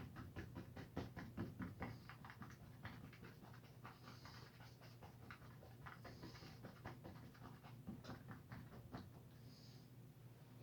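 Faint, rapid dabbing and scratching of a paintbrush on canvas, several light taps a second, as bushes are stippled in with acrylic paint, over a steady low hum.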